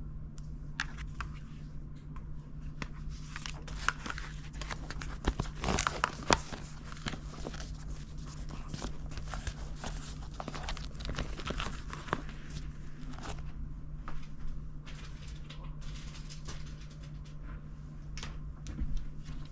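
Irregular crinkling, rustling and clicking of things being handled, busiest in the middle stretch, over a steady low hum.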